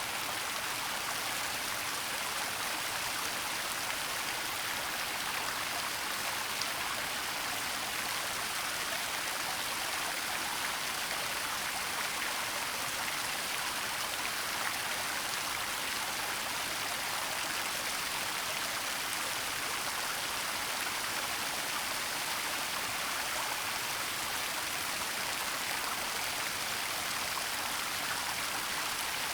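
Waterfall and the water below it rushing with a steady, even hiss.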